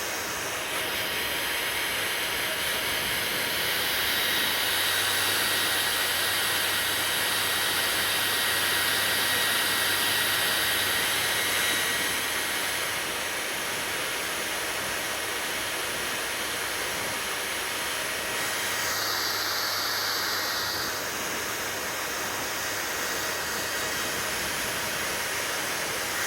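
Hair dryer blowing steadily, a constant rushing airflow with a faint high whine, its tone shifting slightly a couple of times.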